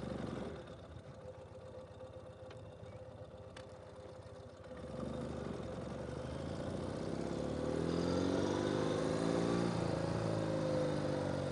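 Ural sidecar motorcycle's flat-twin engine running low and steady, then from about five seconds in getting louder and rising in pitch as the bike accelerates away.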